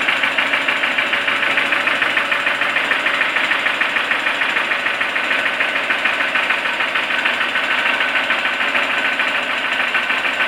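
Toyota 4E-FE 1.3-litre four-cylinder petrol engine idling with a fast, even knock in time with the engine. The knock has recently appeared and its cause is unknown.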